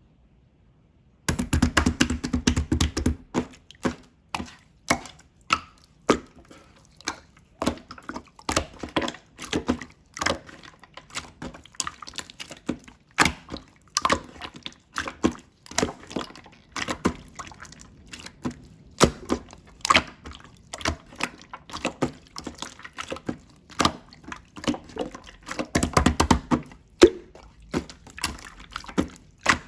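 Slime being squeezed, pressed and stretched by hand, giving wet, sticky clicks and pops in quick irregular succession. The sound starts about a second in, with heavier squelching at the start and again near the end.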